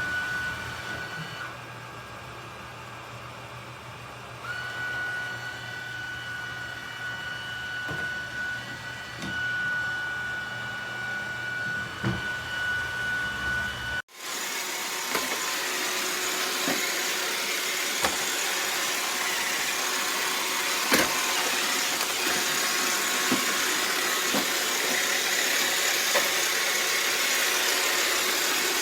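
iRobot Roomba robot vacuum running: a steady high motor whine at first, then, after a sudden cut about halfway through, a louder hissing suction noise with scattered sharp clicks as it knocks into things.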